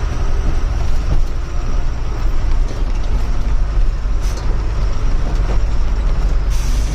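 A truck driving on a mountain road: engine running and a heavy steady rumble of the truck on the move. Short bursts of hiss come about four seconds in and again near the end.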